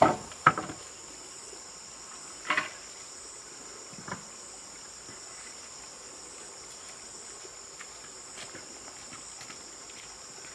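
Steady chorus of crickets, with four sharp knocks in the first four seconds.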